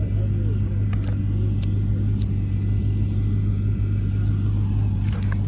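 A car engine idling steadily, a low, even hum with no revving, with a few faint clicks over it.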